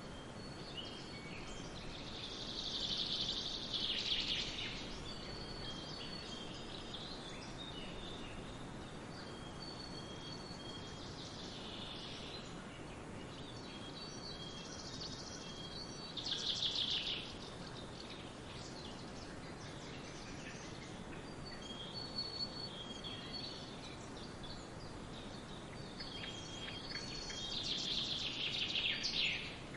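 Wild birds chirping over a steady background hiss: repeated short high notes, broken by several louder bursts of twittering song, the loudest a few seconds in, about halfway through and near the end.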